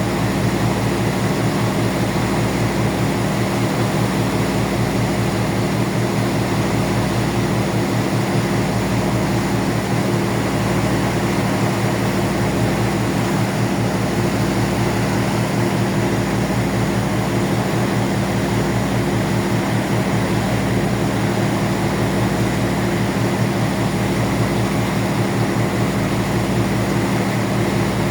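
A ferry's engines droning steadily, a constant low hum with a wash of noise over it, heard on board.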